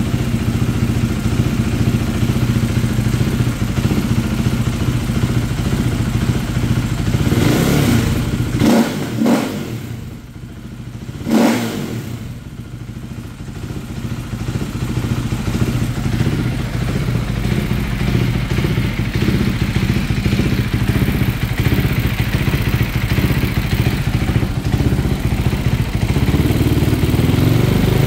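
KTM 390 Duke's single-cylinder engine idling after an ECU idle relearn. A few sharp pops come about eight to nine seconds in. The running then dips and a sharp crack follows about eleven seconds in, before the engine settles back into a steady idle.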